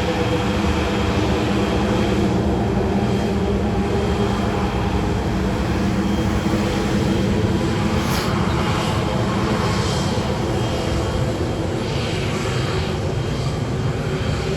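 Aircraft engines running steadily, with a continuous rushing noise and several steady hum tones, and no rise or fall in level.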